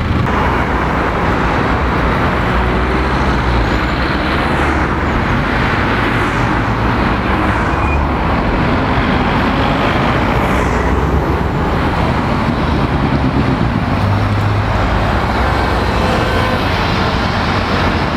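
Steady city traffic noise: cars and other road vehicles passing continuously, with engine rumble underneath.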